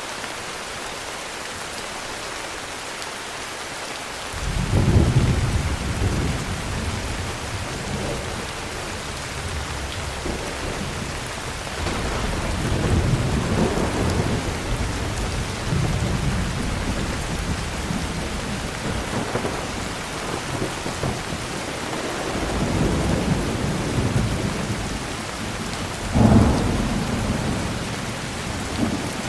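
Steady heavy rain with thunder: a deep rumble breaks in suddenly about four seconds in and rolls on, swelling and fading several times, with a sharper, louder clap near the end.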